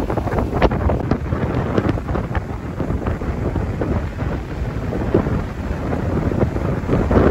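Strong gusty wind buffeting the microphone: a heavy low rumble with crackling surges that rise and fall in strength.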